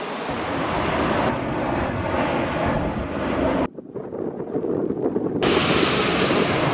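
Jet airliner flying low overhead, a loud steady engine rush. A little past halfway the sound drops abruptly for a moment and returns, louder in the low end, about a second and a half later.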